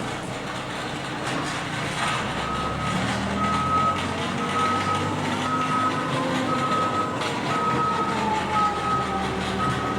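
A vehicle's reversing alarm starts beeping about two seconds in, repeating a steady high beep a little more than once a second, over the running engine of the backing vehicle, whose pitch rises and falls slowly.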